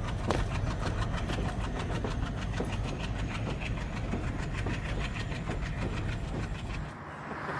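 Train running on the rails: a steady low rumble with a regular clickety-clack of the wheels over the rail joints, which drops away about seven seconds in.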